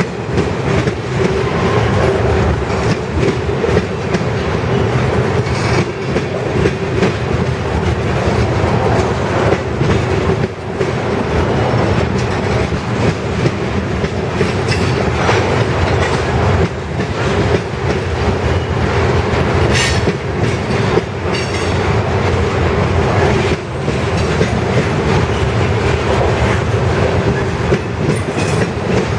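Freight train cars rolling past: a steady rumble of steel wheels on rail, with frequent clicks as the wheels cross rail joints.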